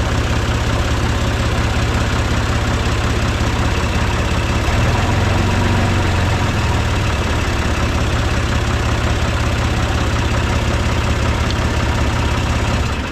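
John Deere 2155 tractor's three-cylinder diesel engine running steadily, started on a newly replaced starter solenoid that cured its no-crank clicking.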